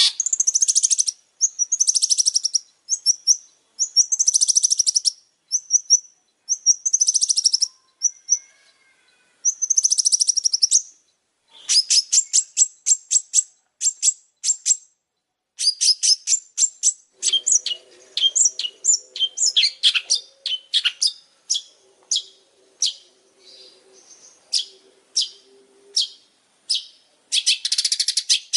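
Long-tailed shrike (pentet) singing vigorously: harsh, buzzy trills about a second long repeated with short gaps, giving way about halfway to rapid runs of sharp, separate chattering notes.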